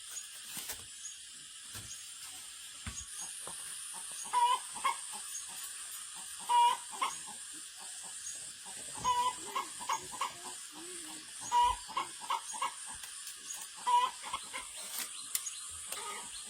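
Chickens clucking: short calls, one every two seconds or so from about four seconds in, over a steady high hiss and small scattered clicks.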